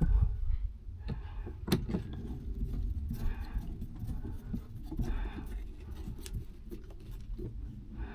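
Hand work on truck-cab interior parts: a few light clicks and knocks, one sharper click about two seconds in, over a low rumble.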